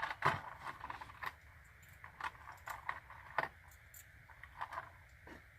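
Irregular metallic clicks and clinks of rifle cartridges and brass being handled, a dozen or so small sharp taps spread across the few seconds.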